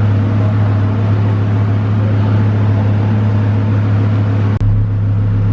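Twin-turbo Lamborghini Huracán's V10 engine idling steadily while it is being tuned. About four and a half seconds in there is a brief click, after which a deeper rumble joins the idle.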